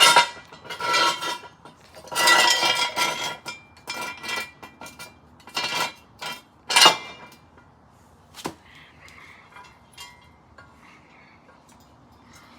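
Steel jack stands being handled and set under a car: clanking and clinking metal in several bursts, with a single sharp knock later on.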